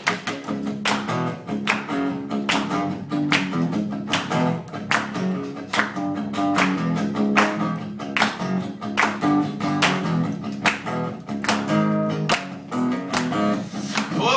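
Acoustic guitar strummed in a steady, even rhythm with low bass notes underneath: the instrumental intro of a live acoustic rock song.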